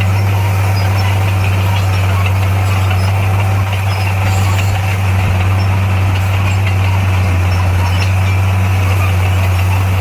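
Heavy diesel engine of earthmoving equipment running at a steady speed, a constant low drone.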